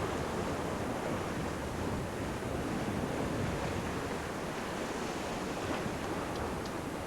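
Steady rush of wind and seawater around a yacht sailing at speed, with wind buffeting the microphone. There are a couple of faint high ticks near the end.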